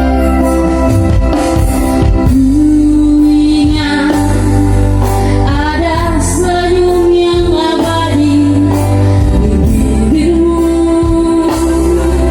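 A solo voice singing a song over loud instrumental backing with a heavy bass, holding long notes with vibrato.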